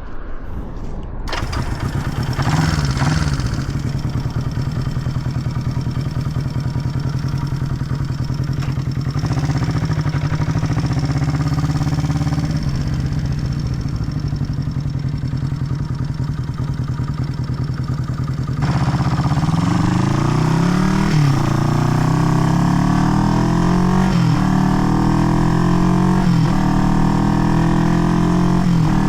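Engine of an old Honda CB parallel-twin motorcycle running under way, steady at first. About two-thirds of the way in it gets louder and accelerates through the gears, the pitch climbing and then dropping back at each upshift, roughly every two and a half seconds.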